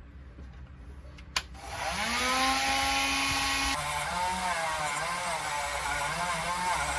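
Small electric power tool motor spinning up to speed about two seconds in, then running with a lower, wavering pitch as it works under load.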